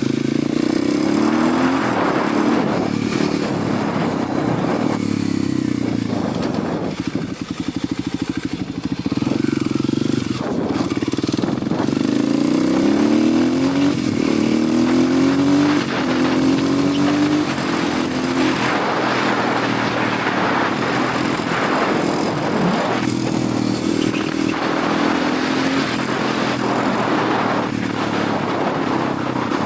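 Kawasaki 250 motorcycle engine under way, its pitch climbing again and again and dropping back as the rider shifts up through the gears. It eases off for a couple of seconds before pulling again, over a steady rush of wind.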